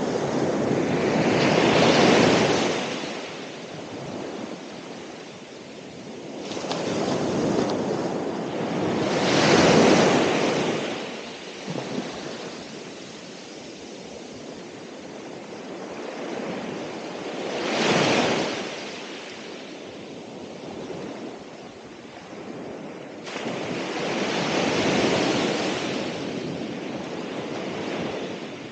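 Ocean waves breaking and washing up the shore, with about four surges of surf rising and falling, the one near 10 s the loudest.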